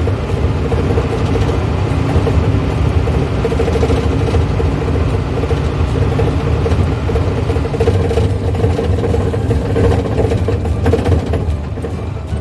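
1970s Volkswagen engine running steadily while the car is driven, with a steady hum and low rumble.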